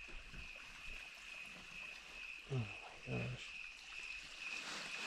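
A steady, high-pitched, pulsing night chorus of calling creatures. Two short low sounds that fall in pitch break in about two and a half and three seconds in, the loudest moments.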